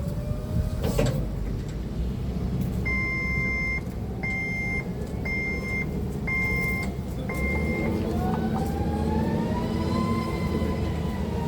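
Stand-up forklift sounding its reversing alarm five times, then its motor whine rising and falling, over a steady low rumble.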